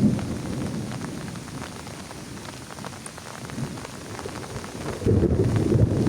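Heavy rain falling, with many drops ticking, under a low rumble of thunder. The rumble is strong at the start, dies down in the middle and comes back suddenly about five seconds in.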